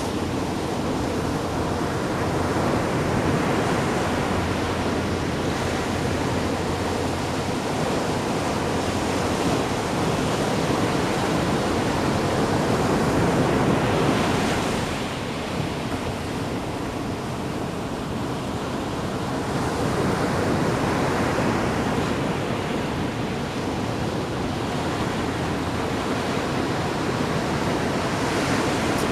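Ocean waves washing and splashing ashore, a steady rush of surf that swells and eases as each wave comes in, with wind on the microphone.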